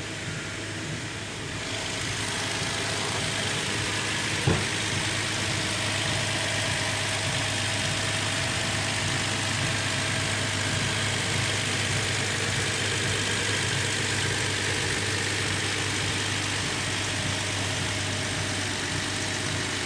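Subaru Outback's horizontally opposed engine idling steadily. It gets louder about two seconds in, and there is a single sharp click a couple of seconds later.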